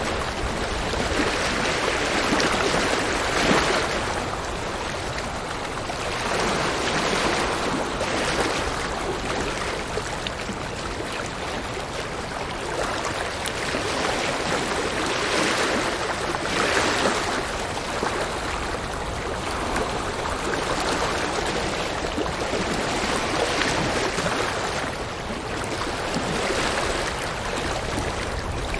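River water rushing and splashing over rocks, a steady flow that swells and eases every few seconds.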